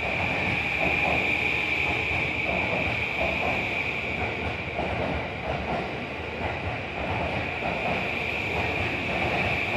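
Electric commuter train noise at a station platform: a steady high whine over a continuous low rumble.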